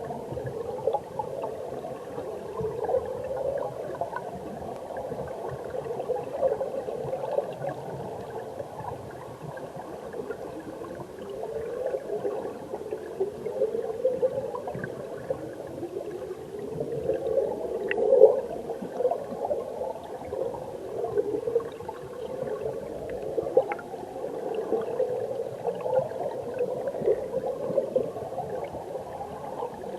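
A mountain stream recorded underwater: a steady, muffled gurgling and bubbling of flowing water, with one sharp click a little past halfway.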